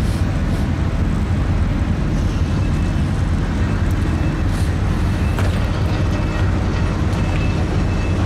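Diesel engine idling steadily, a low, even rumble with a few faint clicks over it.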